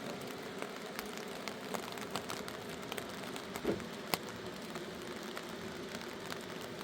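Steady rain with scattered sharp drip and tap sounds of drops hitting surfaces. There is a thump about three and a half seconds in, followed by a sharp click.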